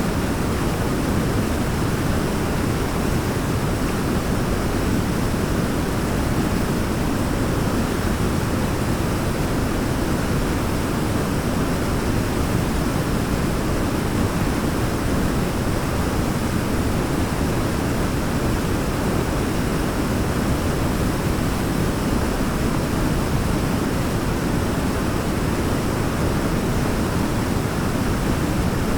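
Waterfall: a steady, even rush of falling water, heaviest in the low end, with no change in level.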